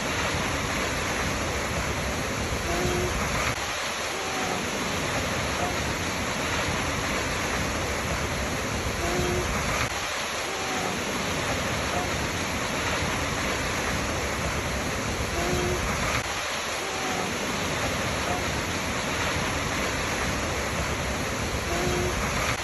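Waterfall: steady rushing of falling water, with faint short tones recurring about every six seconds.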